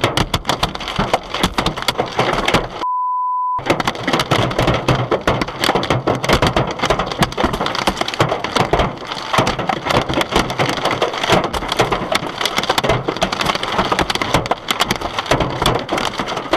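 Hurricane wind and driving rain battering the microphone, a loud, dense hiss full of rapid crackling strikes. About three seconds in, the storm sound cuts out for under a second behind a single steady censor beep.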